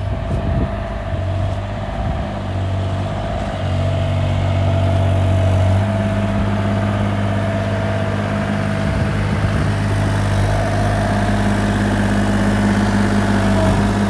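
Excavator engine running steadily, its hum stepping up twice, about three and a half and six seconds in, with a thin steady whine above it.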